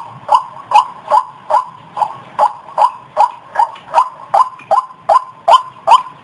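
White-breasted waterhen calling: a steady series of loud, short, harsh 'ruak' notes, about two and a half a second.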